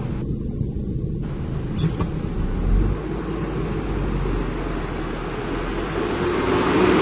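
Heavy diesel engine running with a steady low rumble, growing louder near the end.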